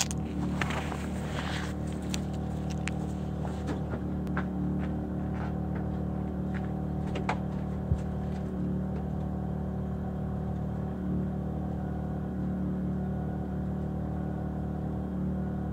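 LB7 Duramax 6.6-litre V8 turbodiesel idling steadily just after a cold start, with a few light clicks in the first half.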